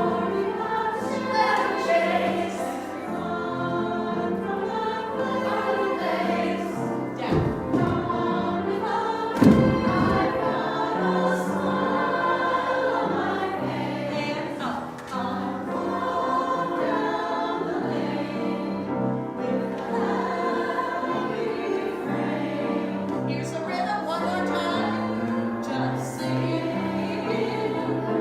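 A choir singing with musical accompaniment, steady in loudness throughout. Two brief low bumps break in near the middle.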